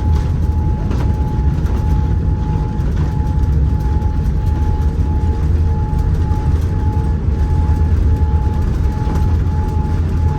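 Steady cabin noise inside a Boeing 787-9 on the ground after landing: a loud low rumble from the wheels and engines, with a faint high tone that keeps breaking off and coming back.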